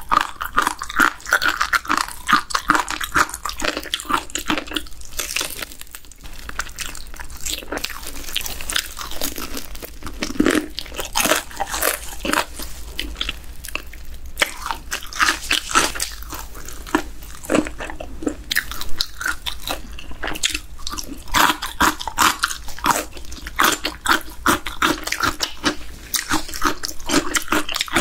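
Close-miked biting and chewing of BHC Bburinkle fried chicken drumsticks: the crispy, cheese-powdered coating crunches in a dense, irregular run of crackling clicks.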